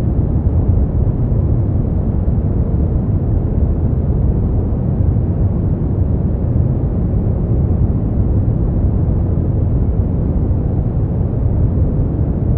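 Brown noise: a steady, deep rushing hiss, strongest in the bass and fading toward the treble, with no change throughout.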